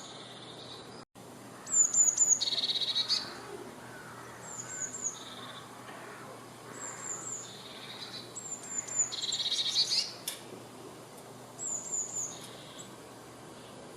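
Eurasian blue tit singing: about five high phrases of three or four short, thin descending notes, two of them running into a fast buzzy trill.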